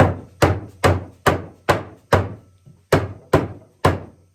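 Steady, evenly paced blows, about two to three a second, knocking the wooden parts of a walnut rocking-chair frame together as the rounds are driven into the posts. Each is a sharp woody knock with a short ringing tail, with a brief pause about two and a half seconds in.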